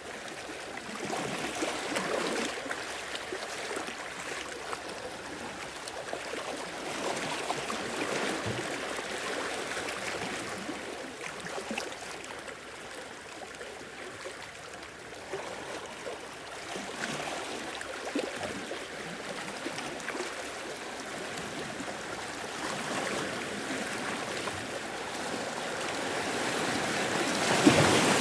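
Small sea waves washing onto a shore and draining back, in gentle swells every few seconds, with the loudest wave near the end.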